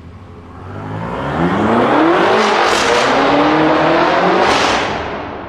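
BMW M5 F10's straight-piped twin-turbo V8 accelerating hard past, its pitch climbing, dropping once at an upshift about two and a half seconds in, then climbing again. It grows louder and then fades away.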